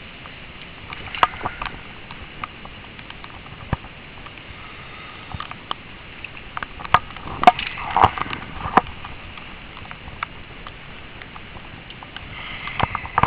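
Heavy wet snow and slush falling, a steady hiss with scattered irregular taps and pattering that is busiest about seven to nine seconds in.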